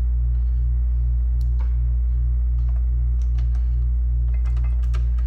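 Steady low electrical hum, the loudest sound, with scattered small clicks of screws being started by hand into a Macintosh Classic's CRT mounts. The clicks come more often near the end.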